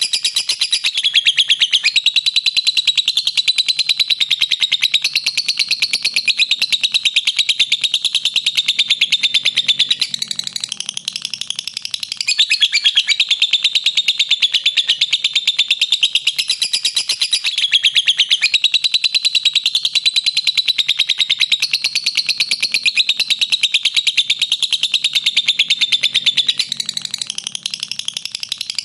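Lovebird doing its long 'ngekek': a fast, unbroken run of shrill chattering notes, with brief dips about ten seconds in and again near the end.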